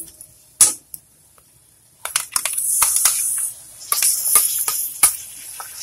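Garlic and ginger paste sizzling in hot oil in a metal kadai, with a metal spatula clicking and scraping against the pan. The sizzle starts about two seconds in, after a single click and a brief hush.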